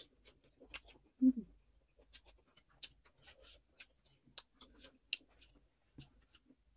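Close-up chewing and wet mouth sounds of a person eating steamed egg momo dumplings: soft smacks and clicks throughout. There is a brief low vocal sound about a second in.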